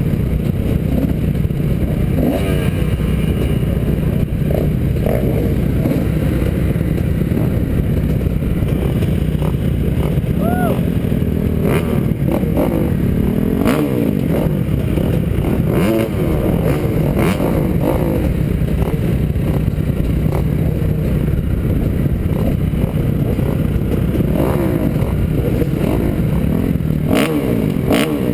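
2009 Kawasaki KX250F's four-stroke single-cylinder engine racing on a motocross track, revving up and down repeatedly as the throttle is worked, with scattered clatter and knocks.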